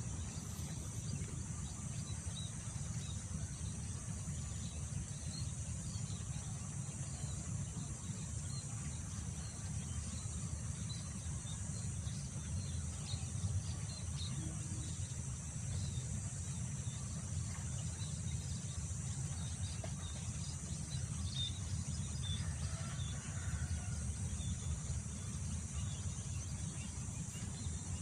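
Rice-field ambience: wind buffeting the microphone as a low, steady noise, under a continuous high drone of insects. Small birds chirp now and then throughout, with a few lower calls about three-quarters of the way through.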